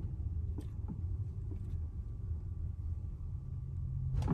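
Tesla Model X cabin rumble while driving over a speed bump, with a sharp knock from the driver-side front suspension under a second in and a few fainter knocks after it. The clunk is typical of something loose, like a nut or bolt, as the owner suspects.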